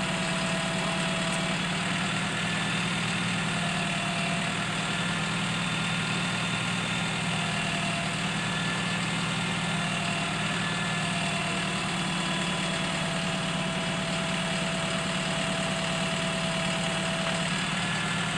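Crane truck's engine running steadily at idle, with a faint thin tone that comes and goes above it.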